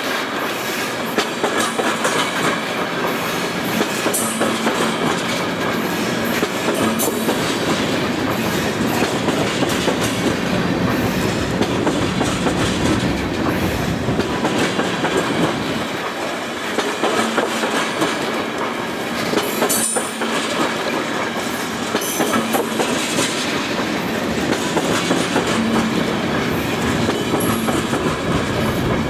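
A freight train of railroad tank cars rolling past close by, steel wheels on the rails making a continuous rumble with rapid clicking.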